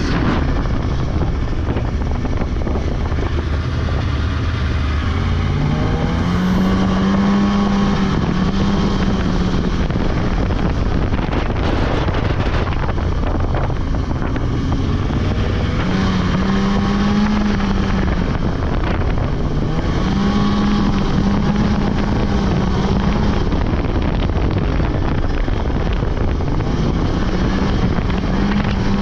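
Polaris 600 two-stroke snowmobile engine running under way, its pitch climbing and holding as the throttle is opened several times. Wind buffets the microphone throughout.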